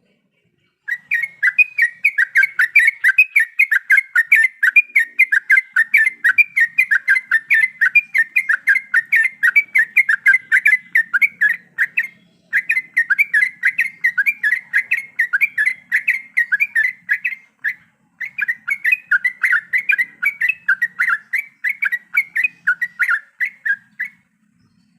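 Yellow-vented bulbul (trucuk) singing a fast, steady chatter of repeated notes, about four or five a second, in three long runs with two short breaks.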